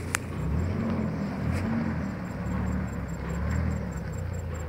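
An off-road 4x4's engine running at low revs as it crawls along a rutted dirt track, the revs rising and falling. There is one sharp click just after the start.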